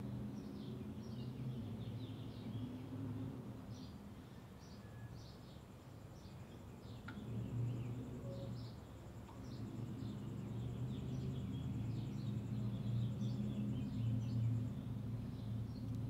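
Small birds chirping, many short high chirps a second, over a steady low hum that is the loudest sound and swells toward the end.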